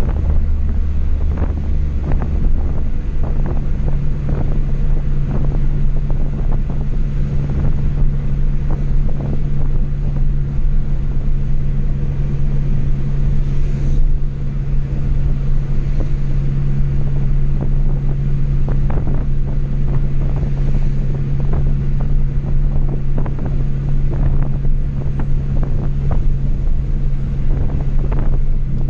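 Chevrolet Astra 2.0 four-cylinder engine with a straight-through exhaust, running loud and steady while driving; its note steps up about three seconds in and then holds, with road noise and light knocks throughout.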